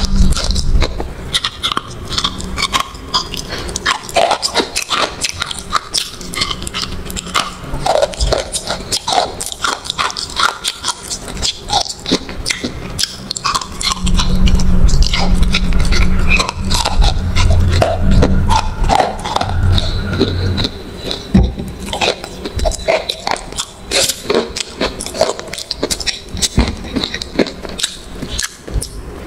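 Close-up crunching and chewing of a crumbly, chalky white food: many short, sharp crunches as it is bitten and ground between the teeth, with a low drone for several seconds in the middle.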